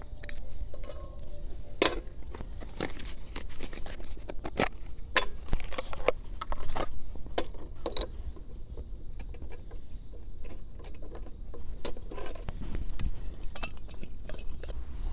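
Irregular light clicks, taps and knocks, as of small objects being handled, over a steady low rumble.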